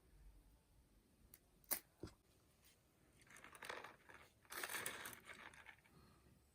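Faint handling noises: two sharp clicks close together, then two spells of rustling, crinkling noise.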